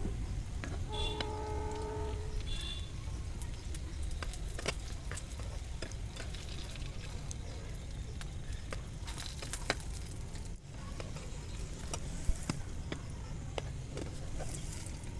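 Oil sizzling gently on low heat as two stuffed flatbread potato tacos shallow-fry in a non-stick pan, with a metal spatula scraping and tapping the pan now and then.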